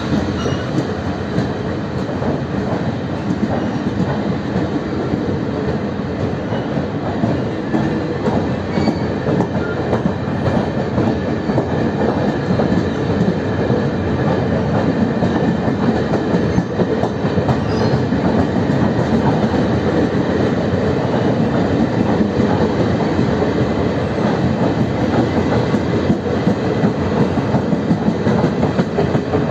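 Passenger coaches of a departing train rolling past close by, wheels clattering steadily over the rails.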